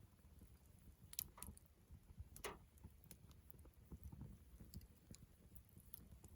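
Faint campfire crackling: sparse small pops and snaps of burning wood, the sharpest about a second in and another at about two and a half seconds, over a faint low rumble.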